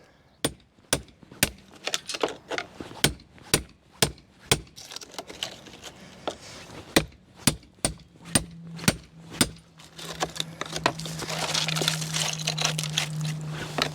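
Hammer strikes, about two a second, most of the way through. In the last few seconds a steady low hum with a hiss rises.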